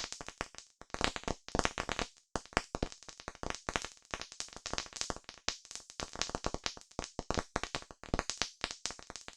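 Campfire crackling: quick, irregular pops and snaps from burning wood, many a second, some louder than others.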